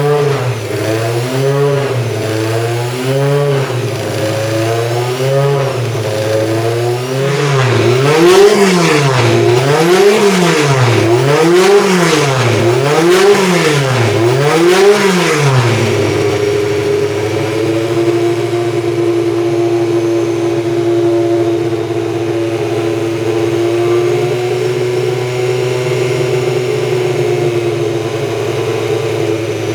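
BMW 320 Group 5 race car's four-cylinder engine revved in a steady rhythm of short blips, about one a second, then harder, wider revs about every second and a half, before it settles to a steady idle about sixteen seconds in.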